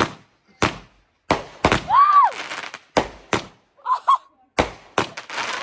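Fireworks going off: a rapid, uneven series of sharp bangs, about a dozen, with a brief rising-then-falling tone in the middle.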